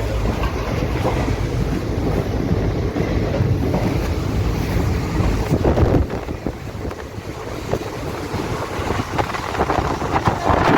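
Train running along the track: a steady low rumble with wind buffeting the microphone, easing about six seconds in and building again near the end.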